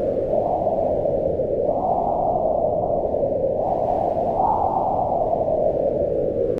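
Wind howling in slow gusts, a steady rush whose pitch rises and falls as each gust swells and dies away.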